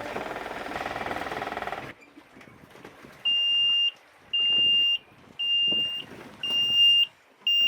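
Sailboat's auxiliary engine running steadily, then shut down abruptly about two seconds in. Soon after, a high electronic alarm beeps about once a second, each beep about half a second long.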